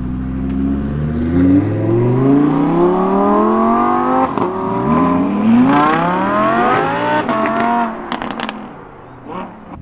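A supercar accelerating hard, its engine note climbing steadily and dropping briefly at each upshift. About eight seconds in the driver lifts off, and there are a few sharp exhaust pops.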